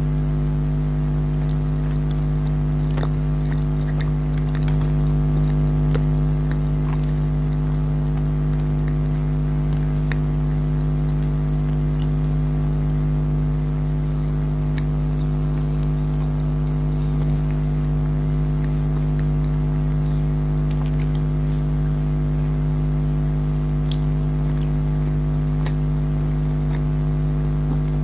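Someone chewing and biting into marshmallow candy, heard as sparse, faint mouth clicks over a loud, steady low hum.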